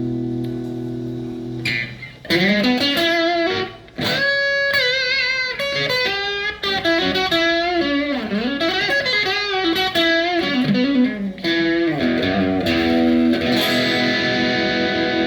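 PRS 24-08 electric guitar played through an amp: a chord rings out for about two seconds, then a melodic lead line with string bends and vibrato, then repeated ringing chords near the end.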